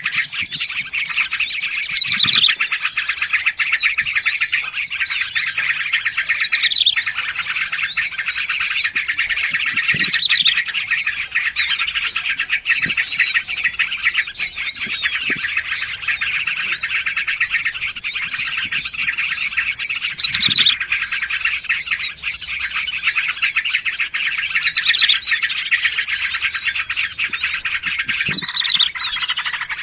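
Dense, unbroken chorus of small songbirds: many overlapping rapid chirps and twitters, mixed as a bird-catching lure call.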